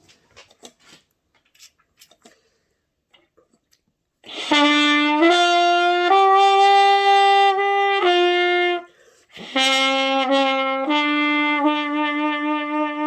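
Trumpet playing slow, sustained notes: a short phrase of four notes stepping up and back down, a brief pause, then two more long held notes. It starts after a few seconds of near quiet with faint clicks.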